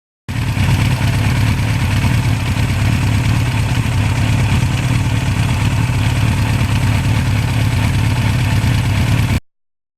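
Motorcycle engine running steadily at an even speed, starting abruptly and cutting off suddenly near the end.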